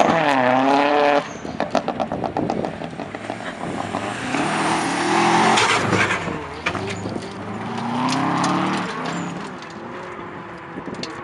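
Autosprint car's engine revving hard and falling back as it is driven round the dirt course, loudest in the first second. Just after comes a run of rapid clicks and crackles, followed by further rising revs.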